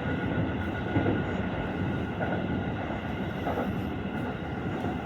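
Cabin noise inside a Seibu 40000 series electric commuter train rolling along: a steady rumble with faint motor tones and a single knock from the wheels about a second in.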